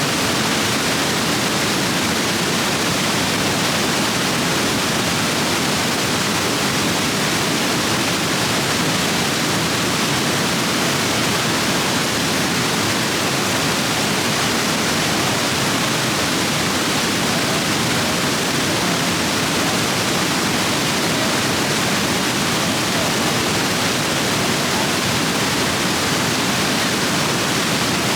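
Rapids swollen by heavy rain, water rushing over rocks in a steady, unbroken roar of white noise.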